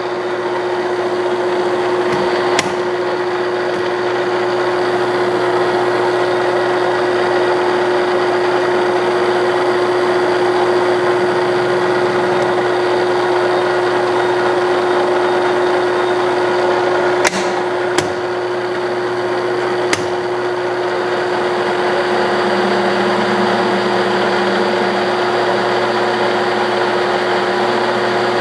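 Clausing Colchester 1340 metal lathe, driven by a 3 hp two-speed three-phase motor, running at 570 RPM with a steady whine while taking a 30-thousandths-deep cut in steel. A few sharp clicks sound over it.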